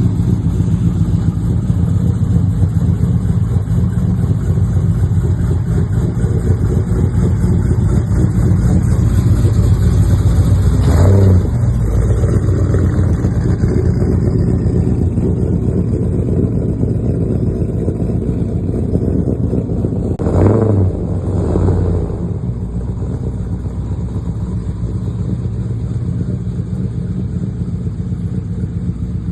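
A motor vehicle running steadily with engine hum and road noise, swelling briefly louder about eleven seconds in and again about twenty seconds in.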